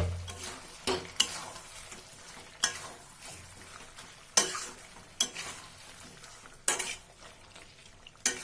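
A spoon or spatula knocking and scraping against a kadai while chicken curry is stirred, with a low sizzle underneath. The sharp clanks come every second or so, unevenly spaced.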